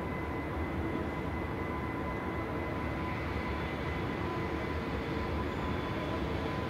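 EH500 electric locomotive hauling a container freight train at low speed: a steady low rumble with a thin, steady high whine over it.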